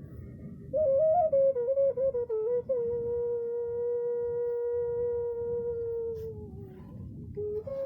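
A slow melody played on a single instrument: a few stepping notes, then one long held note that slides down in pitch, a short break, and a new phrase near the end. A low rumbling noise runs underneath.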